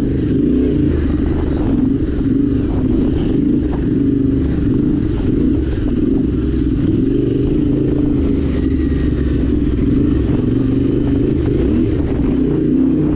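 Yamaha Ténéré 700's parallel-twin engine running under way at a steady pace: a constant low drone with no change in revs.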